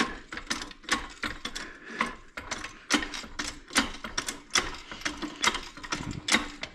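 Hand ratchet wrench clicking in short, uneven strokes, with sharp metal clicks and clinks of tools working on a bolt.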